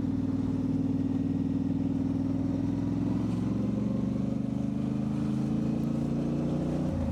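Motorcycle engine running steadily under way, its pitch easing slowly down over the second half, with a change in note just before the end.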